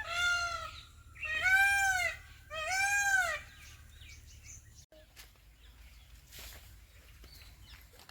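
A bird calling three times, each a loud, rising-then-falling call just under a second long, about a second and a quarter apart.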